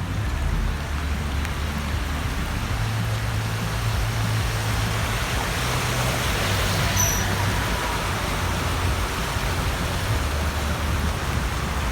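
Steady rushing noise of a heavy downpour and running water, over a low rumble. The noise swells a little midway, with a brief high squeak.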